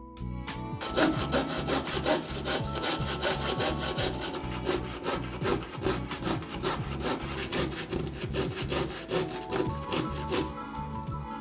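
Rapid back-and-forth strokes of a hand tool on a redwood blank, about four or five a second, starting about a second in and stopping near the end. Soft background music continues underneath.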